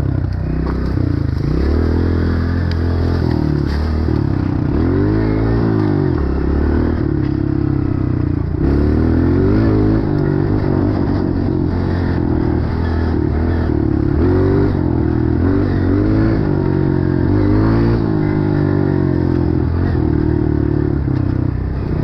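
Dirt bike engine under way, revving up and down repeatedly as the throttle is worked and released, its pitch rising and falling every second or two.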